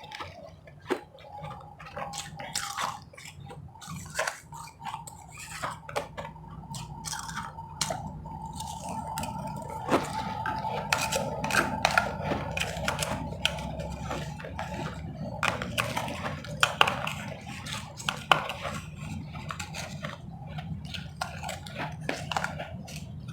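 Close-miked eating of ice: crisp crunches and clicks, with spoon and cup knocks, going on throughout. A faint steady whine runs under the first half.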